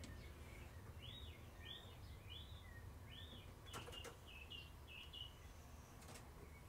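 Faint bird chirping: a run of short, arching chirps from about a second in until past the middle, over a low steady hum, with a couple of faint clicks.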